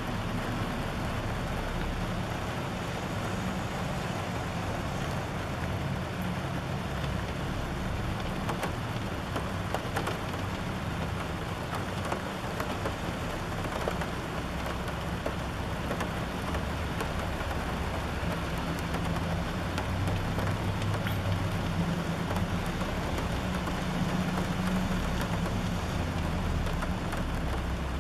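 Steady rain falling, with faint scattered drip ticks and a low, steady rumble of traffic underneath.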